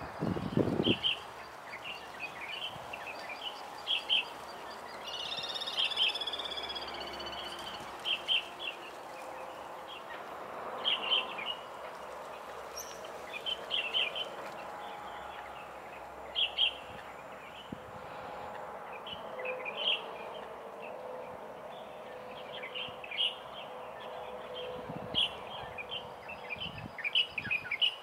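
Wetland birds calling: short, high chirps repeated every second or two, with a different, higher fluttering call about five seconds in, over a steady background hiss.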